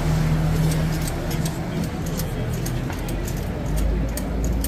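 Street noise with a vehicle engine running in a steady low hum, many light high clicks, and voices in the background.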